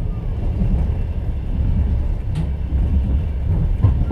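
Passenger train wheels clattering and rumbling on the rails, heard inside a platskart sleeping car. A sharp click comes about halfway through and a knock near the end.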